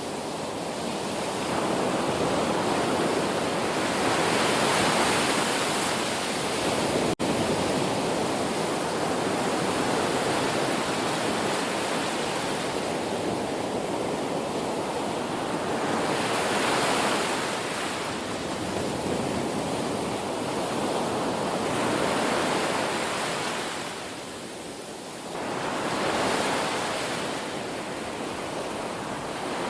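Ocean surf: waves washing in and breaking in slow, continuous swells, with peaks roughly every ten seconds. The sound drops out for an instant about seven seconds in.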